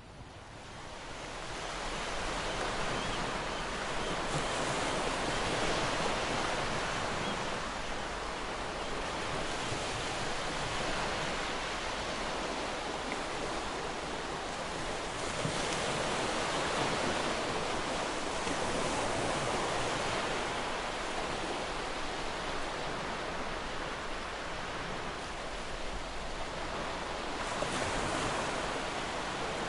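Ocean waves breaking and washing on a beach, a steady surf noise that swells and eases every few seconds.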